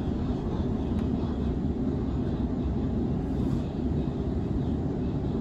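Sydney Trains Waratah Series 2 electric train running between stations: a steady low rumble of wheels and running gear with no change in pace.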